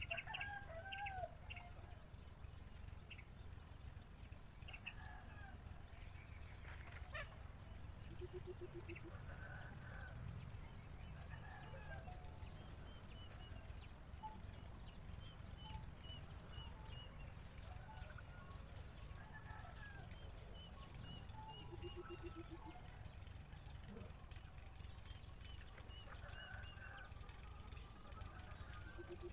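Scattered short bird calls and chirps, some in quick runs of high notes, over a steady low rumble.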